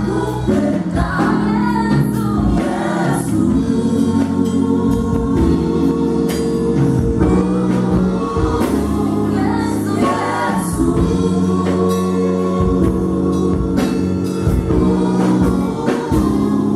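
Contemporary gospel band playing, with several voices singing together in choir style over held chords and a drum beat.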